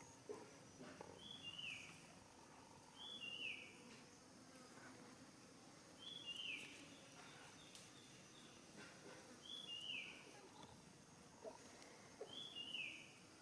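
A high, faint two-note call, each note falling in pitch, repeated five times at uneven gaps over a low outdoor hiss.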